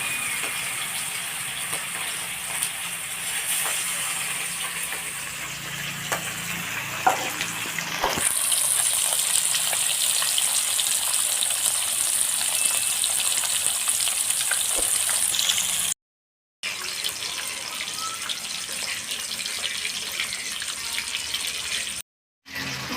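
Small fish sizzling as they fry in hot mustard oil in a kadai, a steady hiss that grows louder about eight seconds in, with a couple of clicks around then. The sound cuts out briefly twice in the second half.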